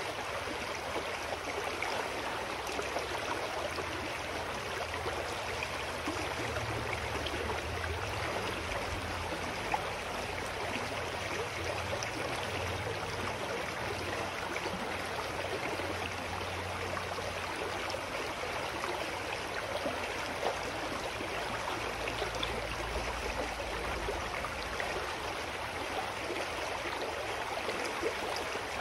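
Clear mountain stream flowing over rocks: a steady rushing and babbling of water, with a low rumble swelling and fading underneath.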